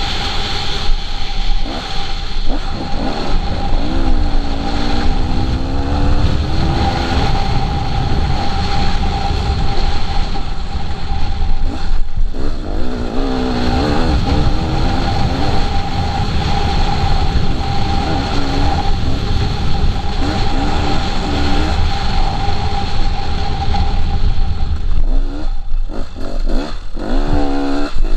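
KTM 300 two-stroke dirt bike engine revving up and down as it is ridden, with brief drops off the throttle about twelve seconds in and again near the end.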